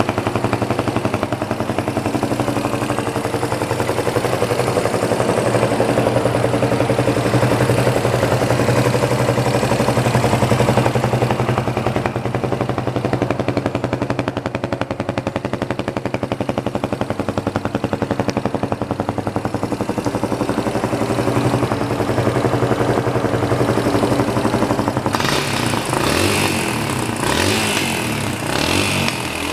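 Suzuki VanVan 200's single-cylinder four-stroke engine idling steadily through its stock muffler, then revved with a few throttle blips near the end.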